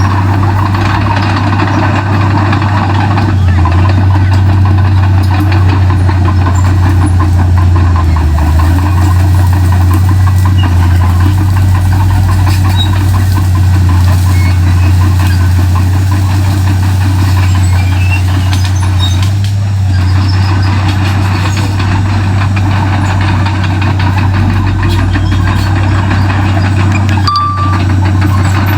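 Komatsu D31P bulldozer's diesel engine running steadily with a loud, constant low drone.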